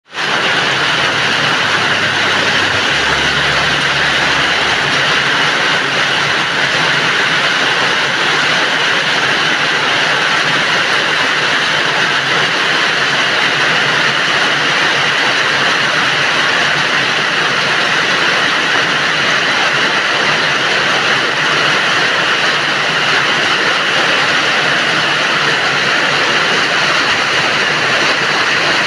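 Heavy rain falling steadily, a dense even hiss with no letup. A faint low rumble sits under it about three to four seconds in.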